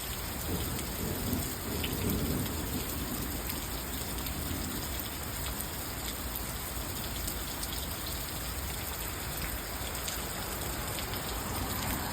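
Steady rain falling on surfaces, with scattered drops ticking through it. A low rumble rises about half a second in and fades within a few seconds.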